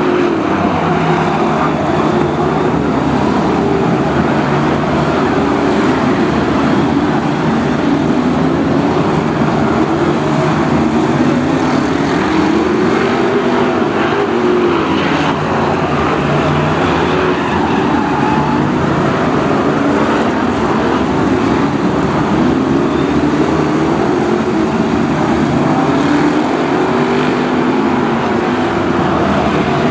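A pack of BriSCA F1 stock cars with big V8 engines racing round an oval, engines rising and falling in pitch as they lift for the bends and accelerate down the straights.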